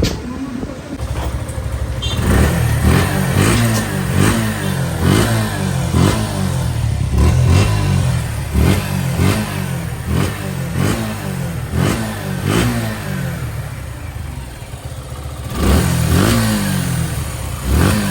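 Suzuki Gixxer FI ABS single-cylinder motorcycle engine revved again and again in quick throttle blips, about two a second, each rev rising sharply and dropping back. The revving eases for a couple of seconds near the end, then picks up again.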